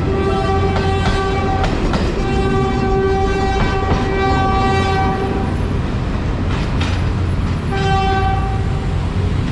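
Philippine National Railways commuter train passing close by with a steady rumble and wheel clicks over the rail joints, while its horn sounds in repeated blasts: one short, then a long blast of about three seconds, then a short one near the end.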